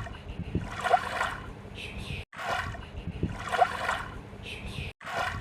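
Splashing and bubbling water sounds in a short loop that repeats about every two and a half seconds, cutting out briefly at each seam.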